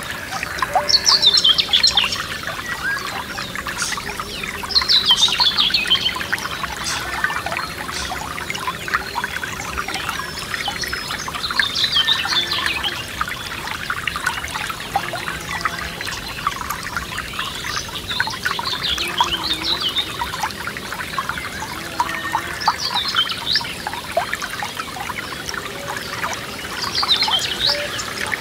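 Forest stream trickling and splashing steadily, while a songbird sings a short high phrase that falls in pitch, six times, several seconds apart.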